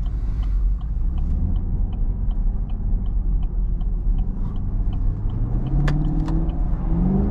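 Chevrolet Camaro's 6.2-litre LT1 V8 rumbling low, then revving up with a rising pitch from about four and a half seconds in as the car accelerates with traction control switched off. A light ticking, about three ticks a second, runs through the first half.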